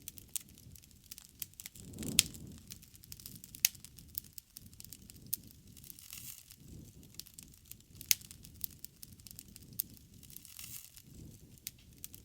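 Wood bonfire crackling: irregular sharp pops and snaps over the low, steady rumble of the flames. The loudest pops come about two, three and a half, and eight seconds in.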